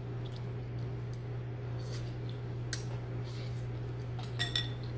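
Eating utensils clicking and clinking lightly against a dish a few times, one clink near the end ringing briefly, over a steady low hum.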